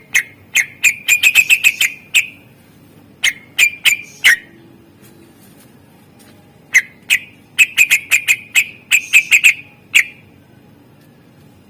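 Green leafbird (cucak ijo) singing: loud, sharp whistled notes in rapid runs, in two bursts with a pause of about two seconds between them.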